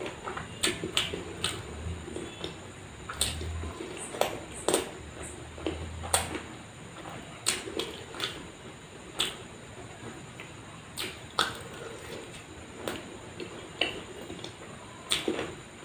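A person chewing and biting food: irregular sharp crunches and clicks, with wet mouth sounds between them.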